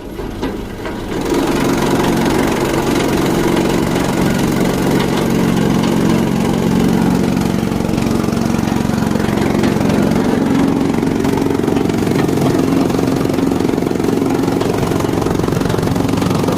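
An engine running steadily, coming up to full, even speed about a second in.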